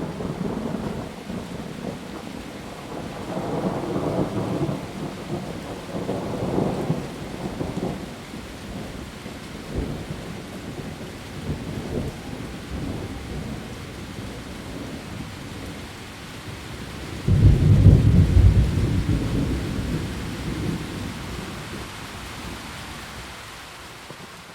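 Heavy rain falling steadily, with rumbles of thunder rolling in and out; the loudest, a sudden deep thunderclap, comes about two-thirds of the way through and fades over a few seconds.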